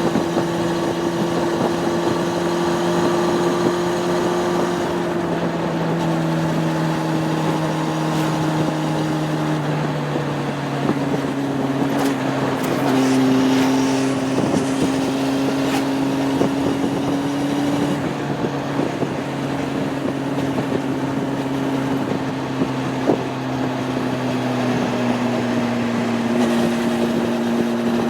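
Honda CB600F Hornet's inline-four engine running at cruising revs, its note dropping in pitch a few times and rising once about halfway through.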